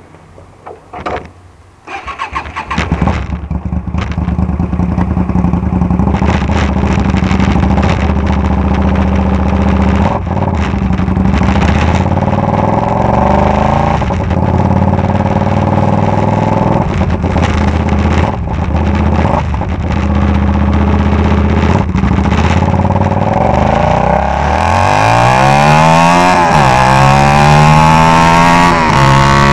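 Kasinski Comet GTR 250's 250cc V-twin running with no exhaust muffler: it catches and starts about two seconds in, then idles loudly. Near the end it is revved up twice, the pitch climbing and falling each time.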